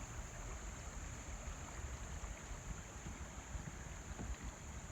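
Outdoor river ambience from a drifting kayak: wind rumbling irregularly on the microphone under a steady high hiss.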